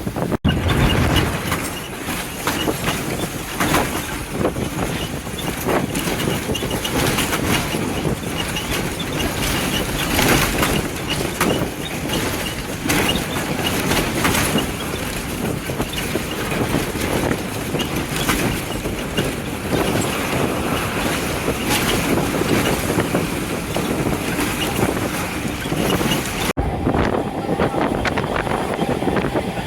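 Continuous rushing and rattling noise of riding in a moving road vehicle. It breaks off abruptly about half a second in, and again near the end, after which a steady hum comes in under the noise.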